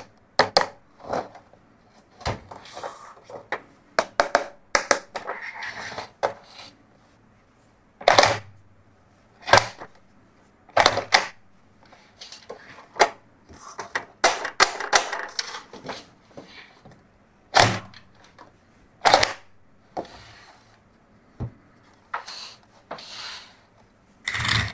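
Hard plastic toys being handled, clicking and clacking irregularly, with short rustles in between.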